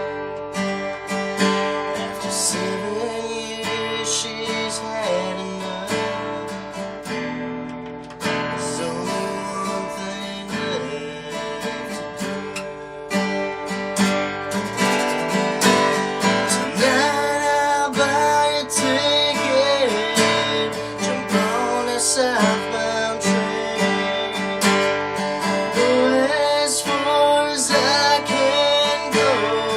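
Acoustic guitar strummed in a country song, getting somewhat louder about halfway through.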